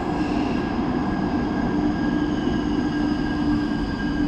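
Electric rail vehicle running, a steady rumble with several sustained whining tones over it.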